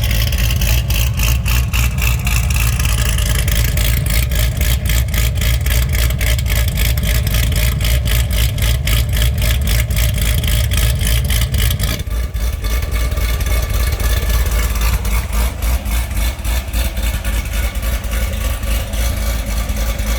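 2008 Corvette Z06's 7.0-litre LS7 V8 idling after a cold start, a steady, pulsing exhaust note. About twelve seconds in, the low rumble drops in level and the idle carries on more softly.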